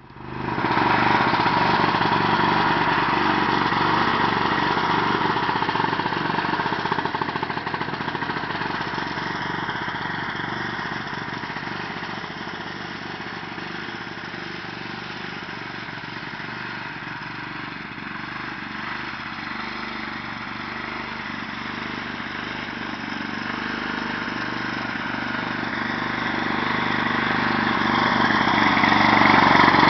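Engine of a rat-rod sled built from a vintage Ski-Doo snowmobile, running steadily; it grows quieter through the first half and louder again near the end.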